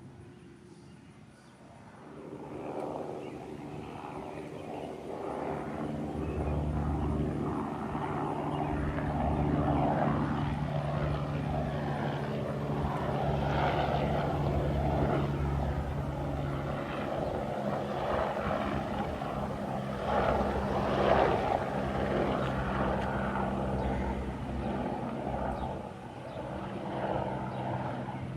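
Airbus H125 helicopter's turbine and rotor running, growing louder about two seconds in and staying loud, with a brief dip near the end.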